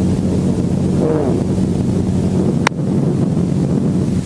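Helicopter running: a steady, loud drone of engine and rotor with a low hum. A short high chirp comes about two-thirds of the way through.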